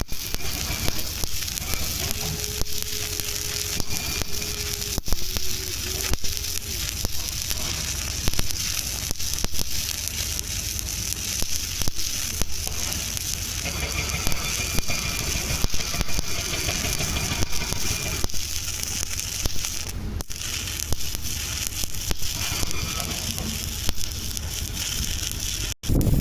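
Electric arc welding on a pipe joint: the arc crackles and sizzles steadily while a fill or cap pass is laid.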